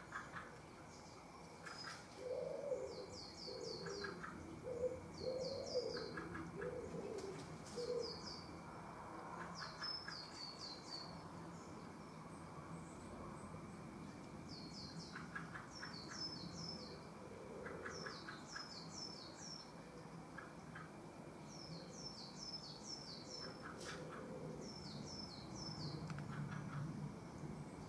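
Wild birdsong. A small bird repeats short phrases of three to five quick, high, falling notes every second or two. In the first several seconds another bird gives a series of lower, soft calls.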